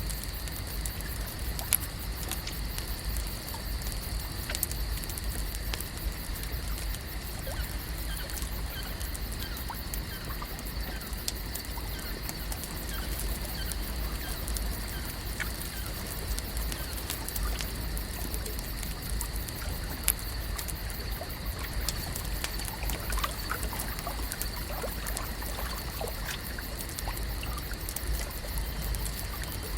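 Lake ambience: water trickling and lapping over a steady low rumble and a steady high hiss. Scattered small clicks and ticks run throughout, with faint short chirps in the second half.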